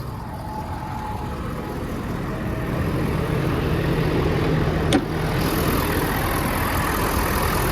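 Ford King Ranch pickup's engine idling, growing steadily louder as the microphone nears the engine bay, with one sharp click about five seconds in.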